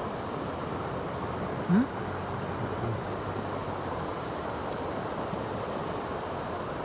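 Steady rushing outdoor noise, with one brief rising vocal sound about two seconds in.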